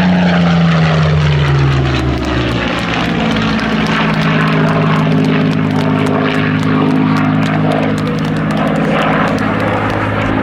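Supermarine Spitfire's Rolls-Royce Merlin V12 engine in a display pass, its pitch falling over the first two seconds or so as it goes by, then running steady.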